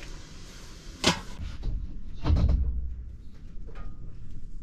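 Knocks from things being handled in a small room: a sharp knock about a second in, then a heavier, dull thump a little later, with a few lighter taps around them.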